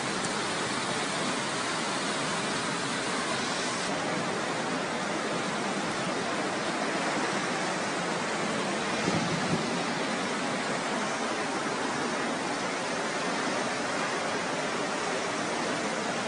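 Fast-flowing floodwater rushing steadily, a continuous noise of moving water, slightly louder for a moment about nine seconds in.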